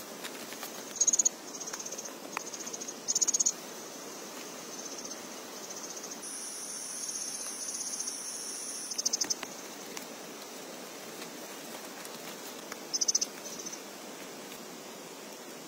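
Insects chirping in short, high, rapidly pulsed bursts a few seconds apart, with one longer steady high trill in the middle, over a faint steady hiss.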